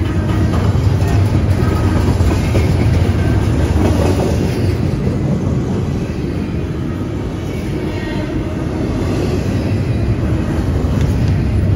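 Double-stack intermodal freight train rolling past close by: a loud, steady rumble of steel wheels on rail with clattering from the passing well cars.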